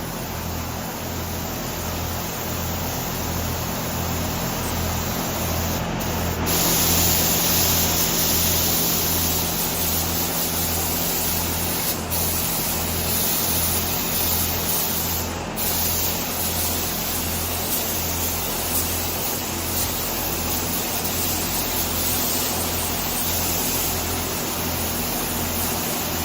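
Paint spray gun hissing continuously as paint is laid onto the helicopter's body, with a low throb repeating about once a second underneath.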